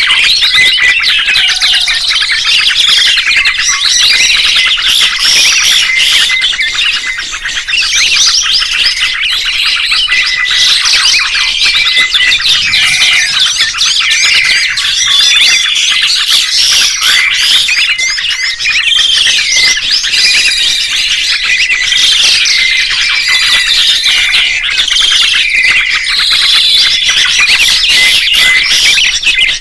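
Many small songbirds chirping and trilling together in a dense, continuous chorus of quick overlapping calls, with a steady high note held underneath.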